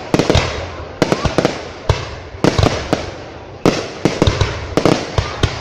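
Aerial fireworks bursting in quick succession: sharp bangs in clusters, about two or three a second, each trailing off in a crackling patter.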